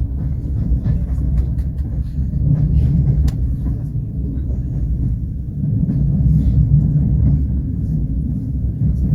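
Passenger train running, heard from inside the carriage: a steady low rumble with a few faint clicks in the first few seconds.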